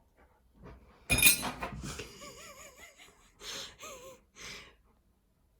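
Malamute giving a loud breathy huff about a second in, then short wavering whine-like vocal sounds mixed with breathy huffs.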